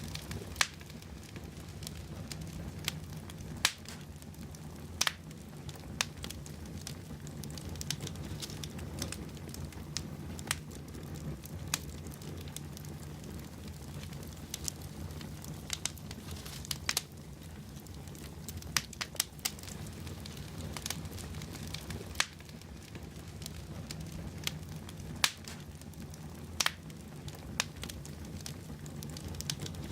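Wood fire burning in a fireplace: a steady low rumble of flames with sharp, irregular crackles and pops from the burning logs, a few standing out louder than the rest.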